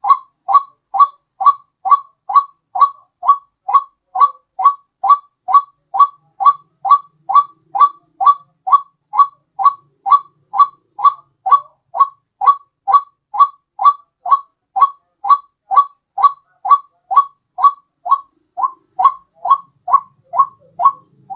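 White-breasted waterhen lure call: a short, bird-like note repeated very evenly a little more than twice a second, with one brief break about three-quarters of the way through.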